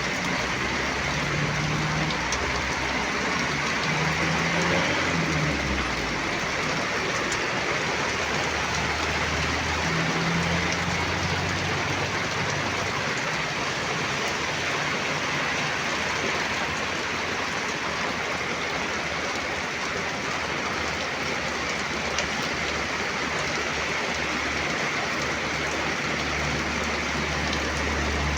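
Heavy rain pouring down steadily, with a low vehicle engine rumble underneath that comes and goes.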